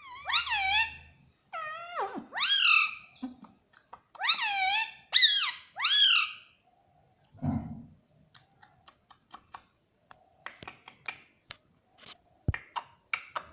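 Indian ringneck parrot calling: a string of high, pitched calls, each rising then falling, in three bursts. A brief dull thud comes about halfway through, followed by a run of quick short clicks and taps.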